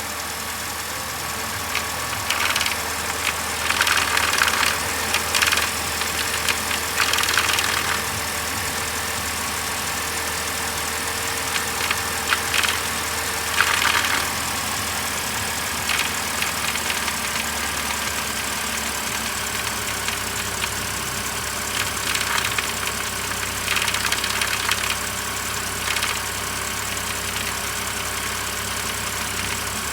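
2008 BMW X5 3.0si's straight-six engine running steadily, with a clanking noise that comes in short irregular bursts every few seconds, more often in the first half.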